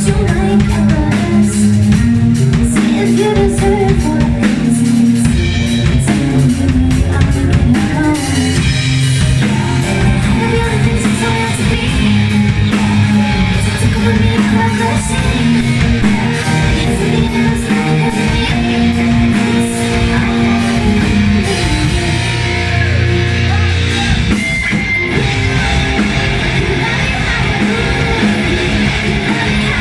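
Rock band playing live, with guitar and drum kit and some singing.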